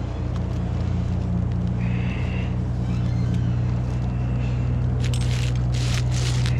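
Chainsaw engine running steadily, with bursts of scraping, rustling noise near the end.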